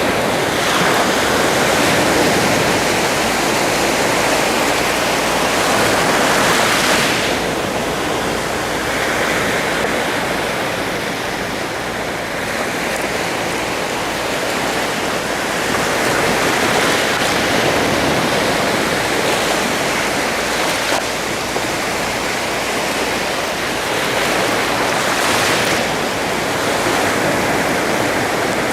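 Sea surf: a steady wash of waves on the shore, a breaker swelling up every eight to ten seconds.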